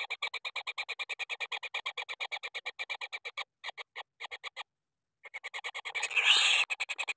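Rapid, evenly pulsed animal calling, about nine pulses a second, breaking off for a moment near the middle and then resuming, with a louder rustling burst near the end.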